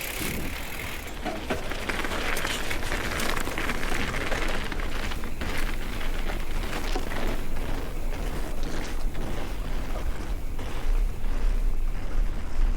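Mountain bike riding over a wet, rough trail: a steady rush of tyre noise with many rattling clicks and knocks from the bike, and a low rumble that grows louder near the end.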